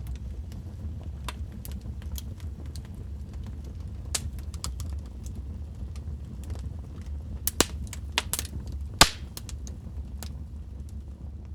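Wood fire in a fireplace crackling, with a steady low rumble of flame under irregular sharp pops and snaps; a cluster of louder pops comes about eight to nine seconds in.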